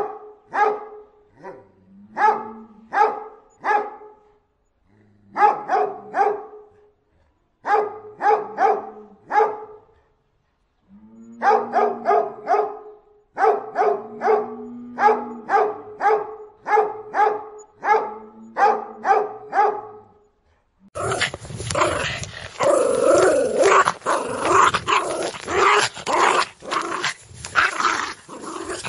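Doberman barking a guarding warning in bursts of three to five sharp barks, with short low growls between some bursts. In the last third it switches to a Spitz barking and growling rapidly and almost without pause, an annoyed dog.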